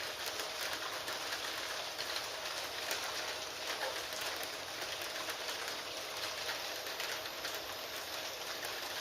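Steady rain falling on a surface, mixed with a dense scatter of small clicks that fit keyboard typing, over a faint steady tone.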